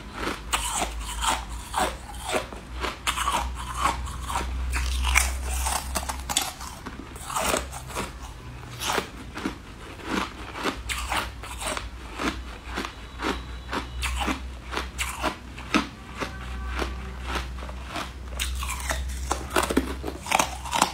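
Close-up biting and chewing of corn-cob-shaped jelly candy, a run of crisp, irregular crunches and clicks, several a second, with a steady low hum underneath.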